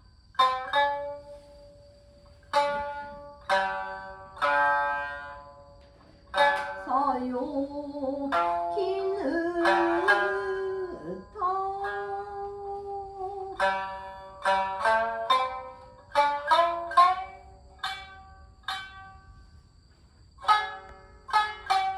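Yamato-gaku accompaniment: plucked shamisen phrases, sparse single notes at first and then quick runs, with long held notes that slide in pitch around the middle.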